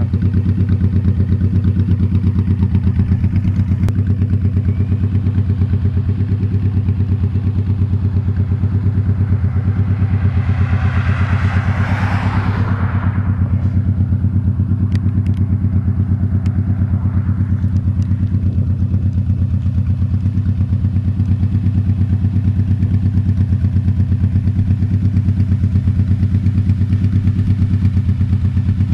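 Honda Shadow Spirit 1100's V-twin engine running steadily at cruising speed while the motorcycle is ridden. A brief rushing swell of noise rises and fades about eleven to thirteen seconds in.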